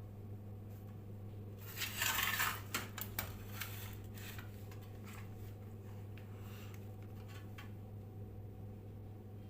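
A steady low electrical hum, with a brief clatter of small metal objects about two seconds in.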